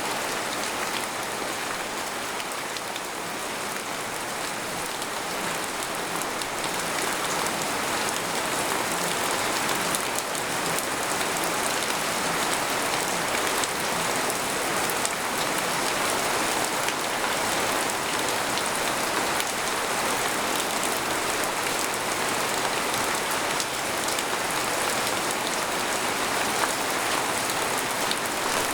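Steady rain falling, individual drops ticking close by, heard from inside a tent. It gets a little louder a few seconds in, then holds steady.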